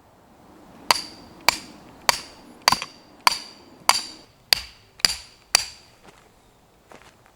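A hammer striking metal nine times in a steady rhythm, a little under two blows a second, each blow leaving a short bright ring.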